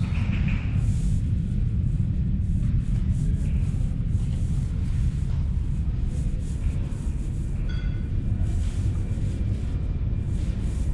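Steady low rumble on a deep-level London Underground Central Line platform, the sound of trains running in the tunnels, with a short high squeal about eight seconds in.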